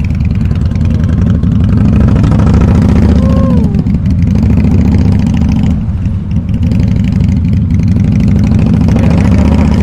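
Harley-Davidson V-twin motorcycle engine running loud and deep through its exhaust, with a rapid low pulsing that swells about a second and a half in and eases briefly around the middle.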